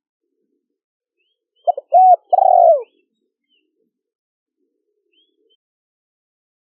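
Spotted dove cooing one three-note phrase about two seconds in, a short note followed by two longer ones. Faint high chirps of small birds sound around it.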